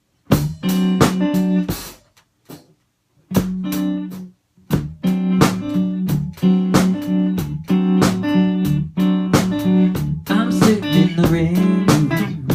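Clean electric guitar played through a Supro Dual Tone amp, plucking a melodic intro. It starts with two short phrases separated by pauses, then settles into continuous playing about five seconds in.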